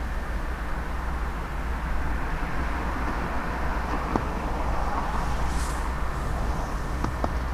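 A diesel train running by with a steady low rumble, with a few sharp clicks about four seconds in and again near the end.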